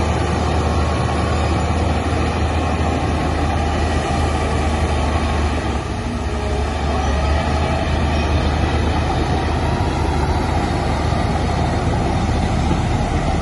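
Heavy diesel earthmoving machinery running steadily with a deep engine rumble, easing briefly about six seconds in.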